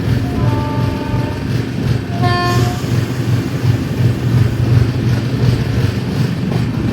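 Express passenger train running at speed, heard from on board: a steady loud rumble of the coach and wheels on the track. Short horn toots sound twice, about half a second in and about two and a half seconds in.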